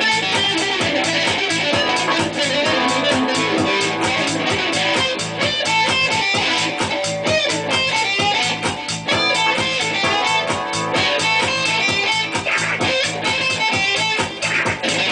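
Guitar music: a fast, dense run of picked guitar notes with a melody line on top.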